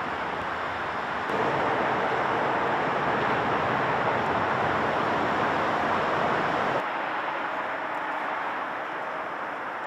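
Steady outdoor rushing noise with no distinct events; it gets louder about a second in and drops back a little before seven seconds.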